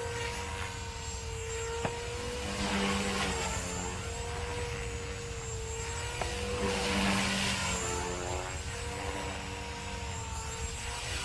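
Walkera V500D01 electric RC helicopter in flight: a steady motor-and-rotor whine whose pitch wavers slightly, swelling louder about three seconds in and again about seven seconds in.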